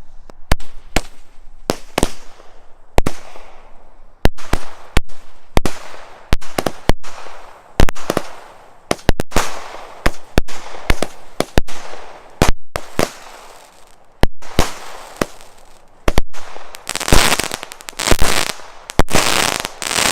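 A 25-shot Fireworks International Shades of Gold firework cake firing: sharp shots every half second to a second, each with a bang and a smeared crackle after it. The shots bunch into a dense crackling volley near the end. It has plenty of bang.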